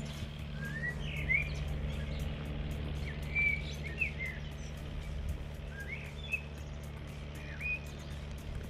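Small songbirds chirping: many short rising and falling notes scattered throughout, over a steady low rumble.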